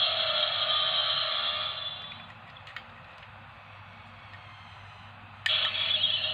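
Knockoff DX Spark Lens toy's small built-in speaker playing a transformation sound effect. The sound fades out about two seconds in, a small click follows, and a new sound starts abruptly about five and a half seconds in.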